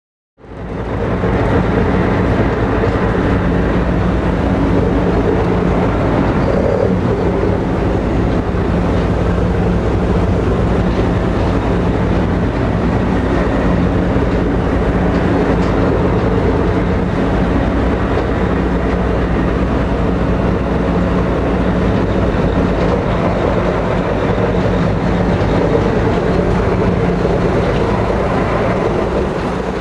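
High-speed passenger ferry under way: its engines run with a steady drone over a broad rushing noise. The sound fades in at the very start.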